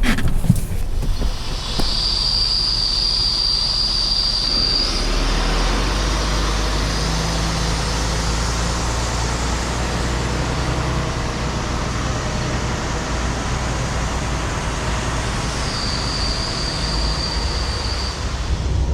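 Tractor-trailer pulling a set of doubles under way: steady engine and road rumble that builds about five seconds in, with a high, steady squeal for a few seconds near the start and again near the end.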